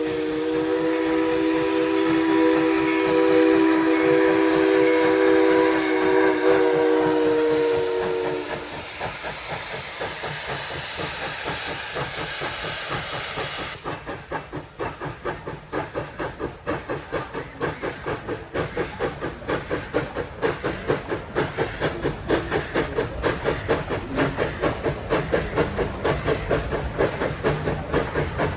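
Steam locomotive's chime whistle blowing one long chord for the first eight seconds or so, with a loud steam hiss that stops abruptly about halfway through. Then the exhaust chuffs begin, evenly spaced and quickening as the locomotive starts pulling away.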